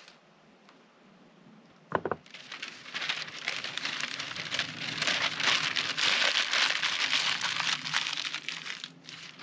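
A single knock about two seconds in, then several seconds of crinkling and rustling, as of packaging or a bag being handled, loudest in the middle before dying away.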